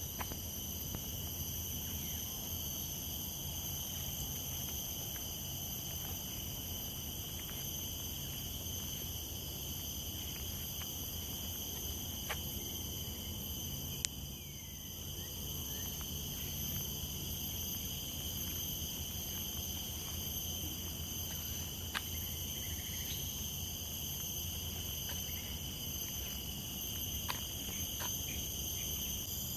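Steady chorus of insects, several unbroken high-pitched tones held evenly throughout, with a few sharp clicks scattered through it.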